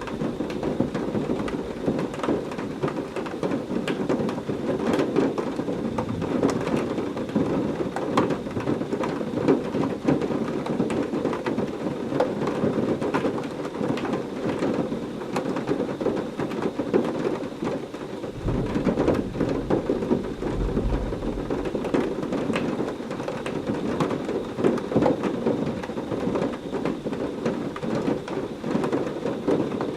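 Heavy rain falling steadily, a dense hiss full of separate drop ticks, with a low rumble of thunder rolling in about two-thirds of the way through.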